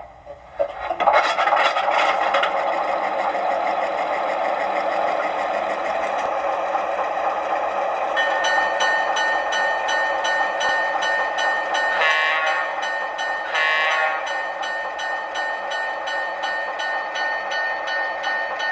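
O gauge model locomotive's onboard sound system starting up and running steadily. A fast repeating ringing joins about eight seconds in, and two short blasts come near the end.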